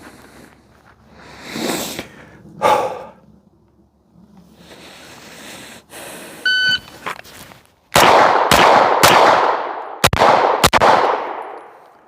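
A shot timer beeps once, then a Walther PDP pistol fires five shots, each ringing out briefly: three in quick succession, a short pause, then two more. This is a timed draw with three shots to the body and two to the head.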